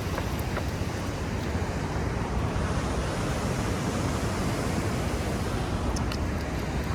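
Steady rushing noise of wind buffeting the microphone, mixed with the wash of sea surf, with a couple of faint ticks about six seconds in.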